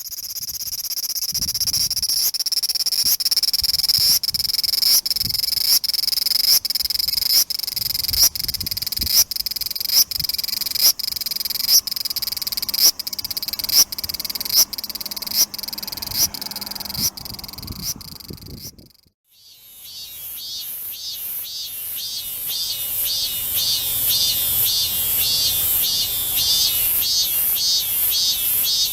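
Cicadas calling. First comes a high, steady buzz that swells in a regular pulse about once a second. After a brief break near the two-thirds point, a different cicada call starts, with quick even pulses about two or three a second.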